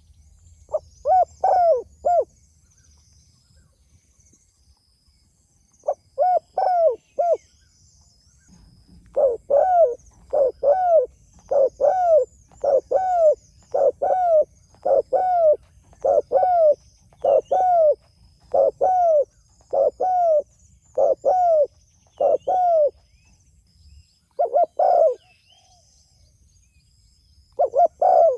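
Spotted dove (tekukur) cooing: two short phrases of about four quick coos, then a long run of evenly repeated coos about one every second, then a few more near the end. Faint high chirping of other small birds and a steady high whine run underneath.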